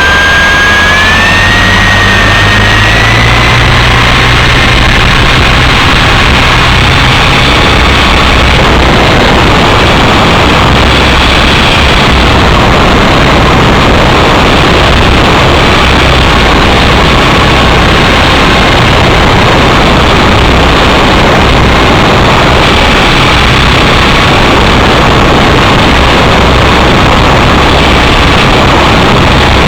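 Small model helicopter's motor whining up in pitch over the first few seconds as it spools up, then running steadily under a loud, constant rushing noise.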